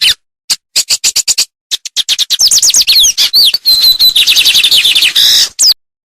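Songbird singing: a few single sharp whistled notes, then about two seconds in a fast, loud run of down-slurred notes and trills with one short level whistle in the middle, ending abruptly.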